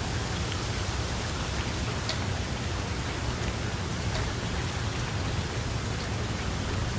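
Steady rain falling, an even hiss with a low rumble underneath and a few distinct drop ticks.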